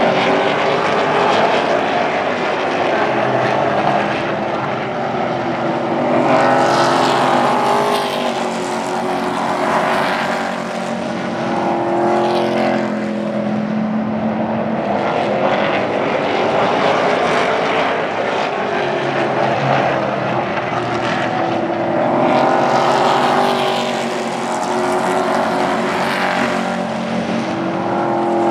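Several Super Truck race engines running hard around an oval track, their pitch rising and falling as the pack comes past and goes away again, with louder swells as it passes.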